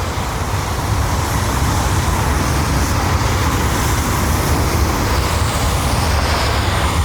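Jet airliner departing: steady jet engine noise with a deep rumble underneath, at takeoff thrust.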